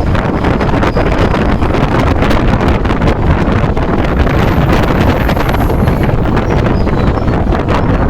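Amrit Bharat Express train running at speed, with loud wind rushing over the microphone and a steady low rumble, and many irregular sharp clicks and rattles from the moving train.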